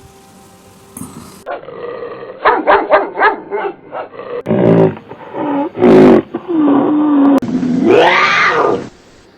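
A run of different animal calls spliced one after another: a burst of quick, repeated barks, then longer calls, the last rising and falling in pitch.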